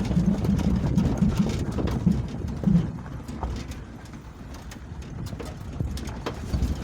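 A vehicle travelling over a rough road: a low engine drone with irregular knocks and clicks from the bumps. It drops away around the middle and picks up again near the end.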